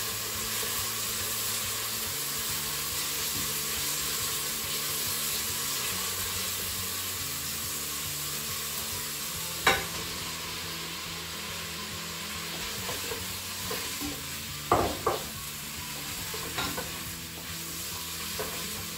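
Chopped onions, celery and garlic sizzling as they fry in a Crockpot Express on its brown/sauté setting, stirred with a spatula. A sharp knock comes about ten seconds in as sliced mushrooms are tipped in, and a few more clacks of the utensil against the pot follow near the end.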